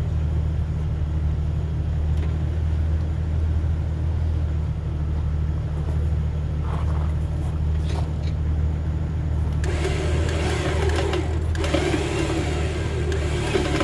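Jeep Wrangler's 4.0-litre straight-six idling steadily; from about ten seconds in an electric truck winch runs under load, its motor and gears adding a louder whirring hum as it pulls cable in.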